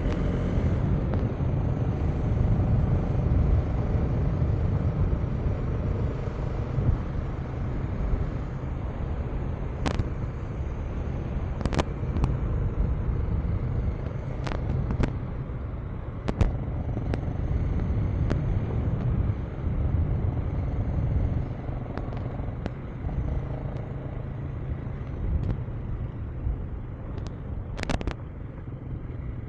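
KTM 390 Enduro R's single-cylinder engine running steadily while riding on a dirt road, with wind rush and sharp clicks and knocks now and then, the loudest near the end.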